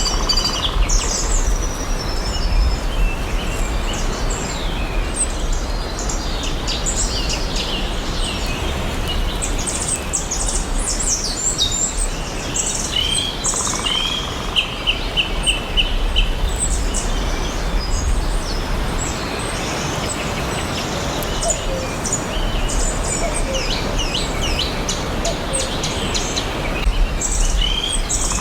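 Several forest birds chirping and singing at once, with overlapping short calls and whistles. About halfway through, one bird gives a quick run of short repeated notes. A steady low rumble of background noise runs underneath.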